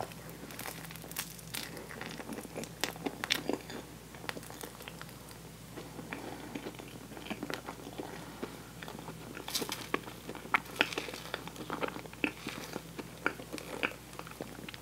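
Close-miked chewing of sticky toasted marshmallow: a run of short, sharp mouth clicks and smacks. They come thickest around two to four seconds in and again from about nine to fourteen seconds.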